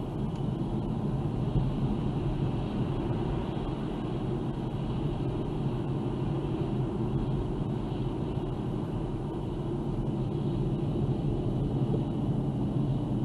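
A car driving steadily, with constant engine and road noise.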